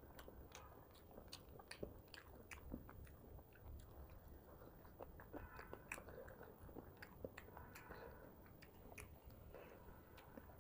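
Close-miked chewing of rice and fish curry, with many short wet mouth clicks and lip smacks scattered throughout.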